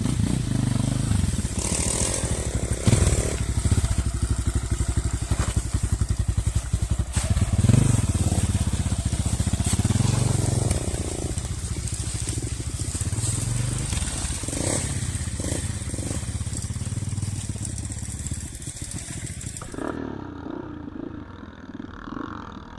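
Small enduro motorcycle engine running, its revs rising and falling as the bike is ridden, getting quieter near the end.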